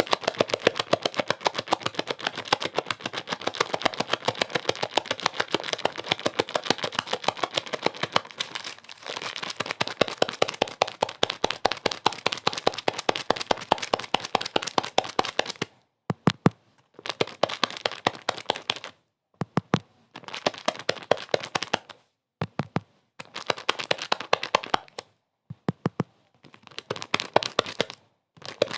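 Dense, rapid crackling noise, many sharp clicks a second over a hiss, broken in the second half by several abrupt gaps of dead silence.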